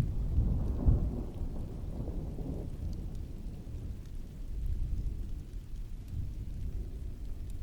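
Rolling thunder rumbling deep and low, loudest in the first three seconds and swelling again more softly about five seconds in, over steady rainfall.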